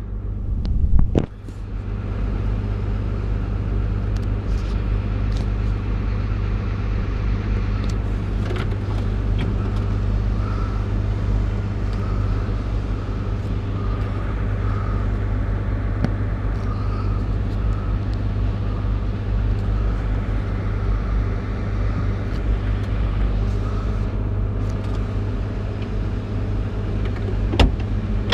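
Caterpillar 349E hydraulic excavator's diesel engine running with a steady low drone, with a sharp knock about a second in and another near the end.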